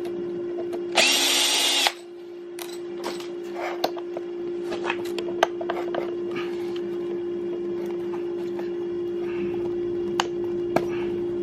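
An electric longboard hub motor running under power with a steady hum; the owner finds its sound uneven, not smooth. A power drill or driver whirs for about a second near the start, and there are scattered clicks and knocks of tools and parts being handled.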